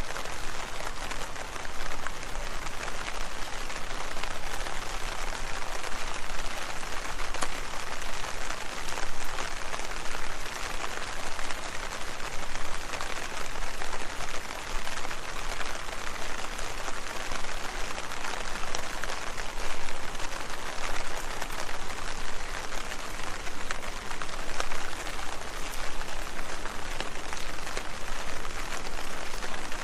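Steady rain falling on leaves: many small drop hits blending into an even, unbroken hiss.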